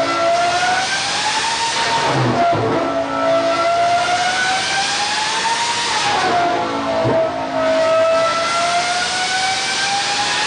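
Lamborghini Revuelto's V12 engine running hard on a dyno. Its note climbs steadily, then drops sharply with a short knock about two and a half and seven seconds in, then climbs again.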